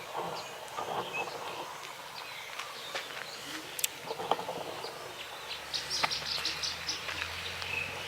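Outdoor rural ambience: birds chirping and insects, with scattered light knocks and clicks. A quick run of high chirps comes about six seconds in, and a low steady hum starts a little before that and carries on.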